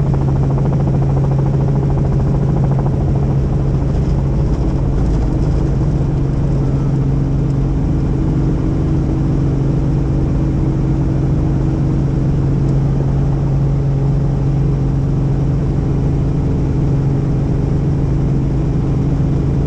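Helicopter in steady flight: a constant low drone of rotor and engine, with a strong low hum and a few steady higher tones that do not change.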